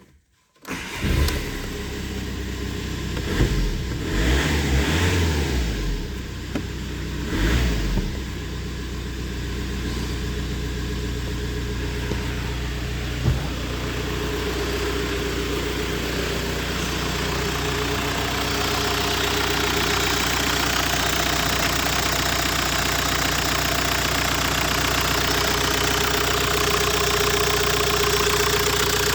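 A VW Golf 4's 1.9 TDI ASZ four-cylinder turbodiesel starting about half a second in, revved in a few short blips, then idling steadily. A single sharp click sounds near the middle.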